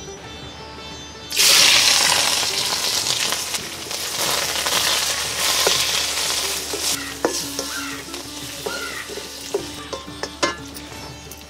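Garlic, sliced onion and leaves dropped into hot oil in an iron kadhai: a sudden loud sizzle starts about a second in and slowly dies down. A spatula then stirs the frying, with a few scrapes and taps against the pan near the end.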